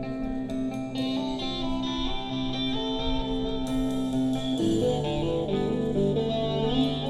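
Live band playing a guitar solo over held bass notes and light cymbals, with the chord changing about four and a half seconds in.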